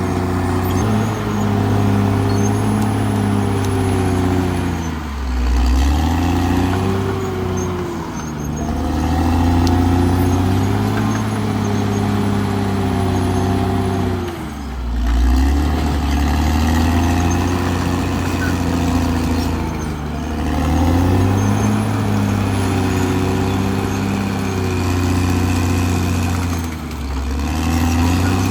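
Caterpillar D6R XL bulldozer's diesel engine running hard. Its pitch dips under load and picks back up several times.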